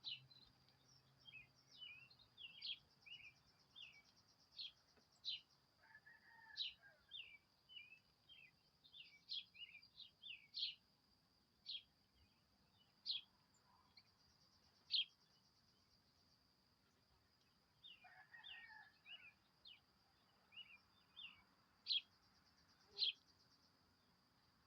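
Small birds chirping: many short, high chirps in quick clusters, thinning out in the middle, over a faint steady high-pitched whine.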